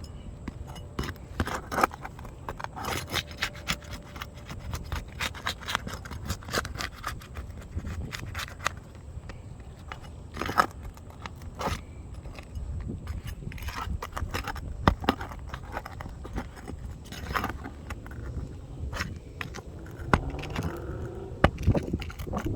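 Metal tool scraping and clicking under asphalt shingles as roofing nails are pried loose, in irregular sharp clicks and scrapes.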